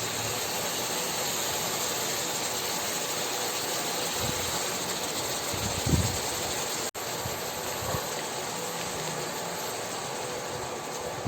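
Chicken frying in oil in a pan, a steady sizzling hiss, with a few soft low thumps from stirring or the pan. The sound drops out for an instant about seven seconds in.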